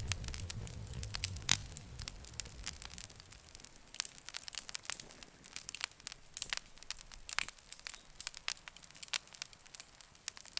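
Wood campfire crackling, with irregular sharp snaps and pops and a louder pop about one and a half seconds in.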